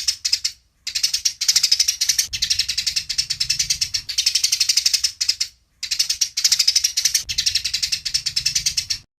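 Eurasian tree sparrow (burung gereja) chattering in fighting mode: rapid, high, dry chirps at about ten a second, in long runs with two short breaks, stopping just before the end.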